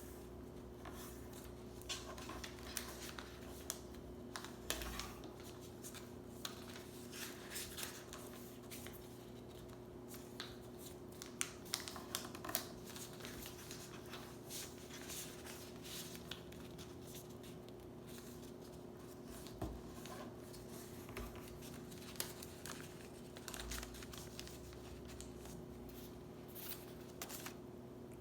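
A sheet of paper being folded and creased by hand: irregular crisp rustles, scrapes and small clicks as the paper is handled and the folds are pressed down.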